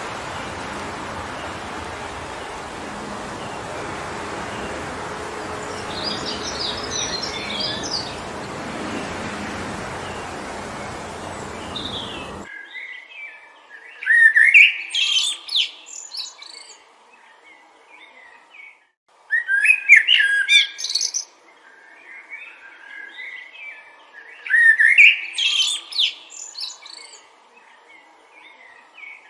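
Wind blowing steadily through forest trees, with a faint bird twitter in the middle of it, cutting off suddenly about twelve seconds in. Then a songbird sings loud, quick phrases of about two seconds each, repeated roughly every five seconds against a quiet background.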